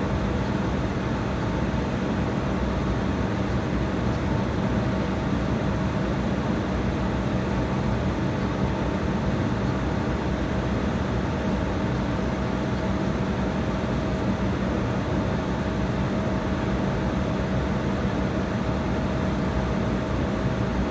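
Steady airliner cabin noise: the jet engines and cabin air running at a constant level, with a low hum and a higher steady tone underneath, with no spool-up.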